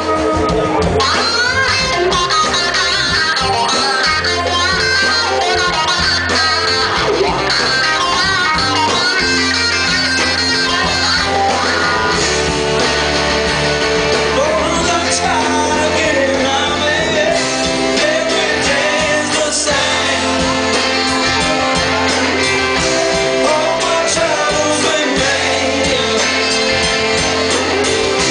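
Live blues-rock band playing a song, with electric guitar over a steady bass line.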